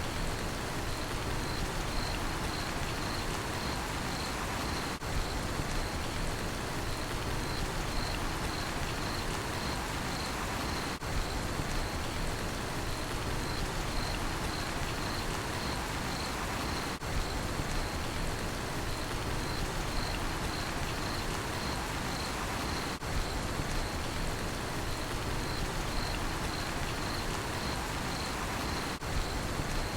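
Steady rain falling, with a cricket chirping in an even, regular rhythm of about two chirps a second above the hiss of the rain.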